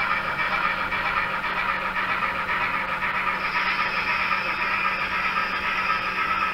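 N scale model trains running on the layout: a steady rolling hum of small wheels on track and locomotive motors, with a higher hiss joining about halfway through.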